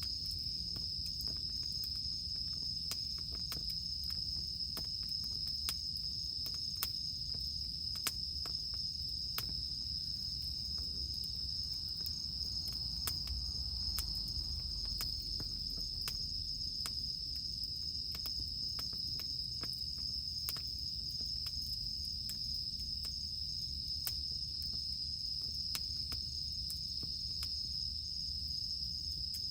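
Cicadas droning in one steady high note, over a wood campfire crackling with frequent irregular sharp snaps and pops.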